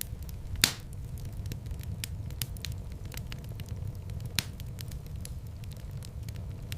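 Fireplace fire crackling: a steady low rumble of flames with many small quick crackles and two louder pops, one about half a second in and one a little after four seconds.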